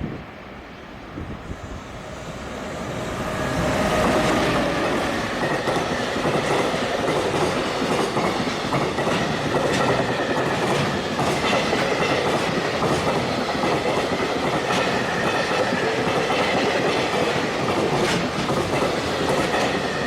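Freight train passing through at high speed. It builds up over the first few seconds, then comes a long, steady run of wagons with the wheels clattering over rail joints in repeated clicks.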